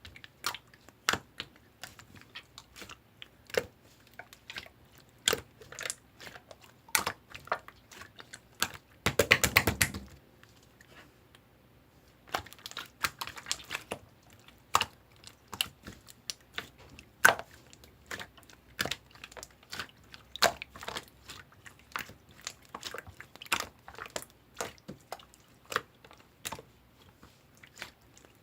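Hand-played slime clicking and popping as it is squeezed and poked, in irregular sharp snaps, with a dense run of crackling about nine seconds in.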